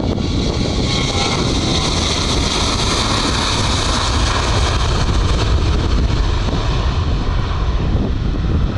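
Airliner engines running steadily loud, with a hissing band strongest through the middle, over low wind rumble on the microphone.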